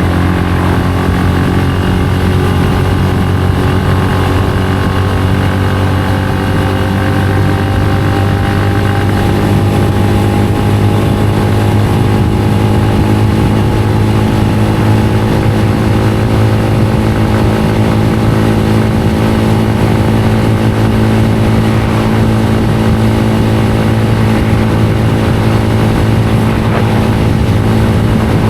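Benelli BN125's single-cylinder engine running under way at a steady cruise, a constant drone whose pitch rises slightly over the first ten seconds or so and then holds steady.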